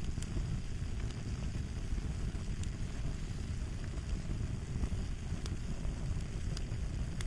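Crackling fire: a steady low rumble of burning with scattered sharp pops and snaps.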